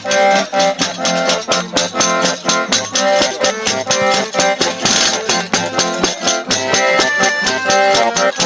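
Traditional Brazilian folk music: an eight-bass button accordion (oito baixos) playing held chords and melody over a quick, even beat of pandeiro.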